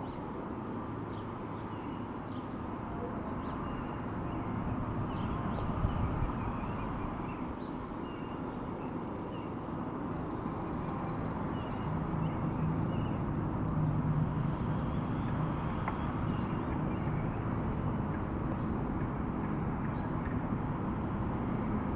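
Steady low outdoor rumble, growing a little louder about halfway through, with faint short high chirps scattered over it.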